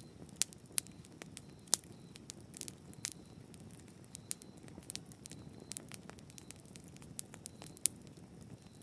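Bonfire crackling: irregular sharp pops and snaps of burning wood, a few much louder than the rest, over a low steady rumble of the flames.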